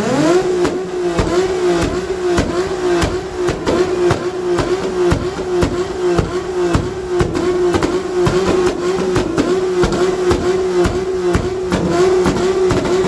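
Car engine revved hard through a loud exhaust and held at high rpm against the rev limiter, its pitch dipping and recovering about twice a second.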